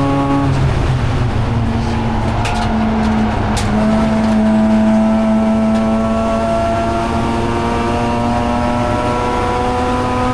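Mazda RX-8 race car's twin-rotor rotary engine. It comes off the throttle about half a second in, then from about three and a half seconds pulls steadily, its pitch slowly rising.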